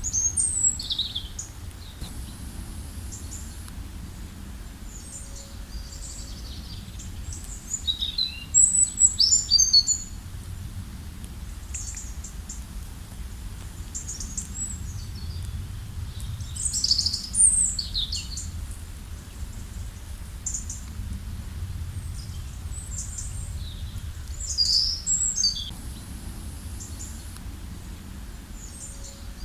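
Small birds chirping and trilling in short high-pitched calls, loudest in four bursts: at the start, about a third in, just past the middle, and near the end. Under them runs a steady low rush of river water.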